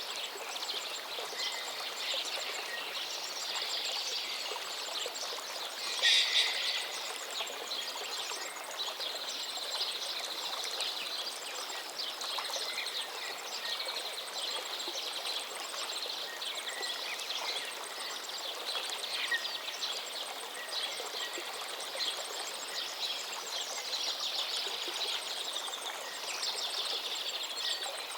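A river flowing steadily, with small birds chirping and singing over it. There is one brief, louder burst about six seconds in.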